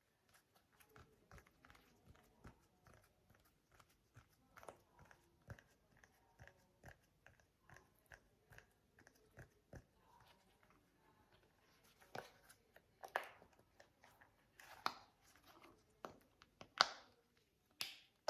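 Anti-stress sensory toy being handled: quiet, irregular crinkles and small pops, with a few louder ones in the last six seconds.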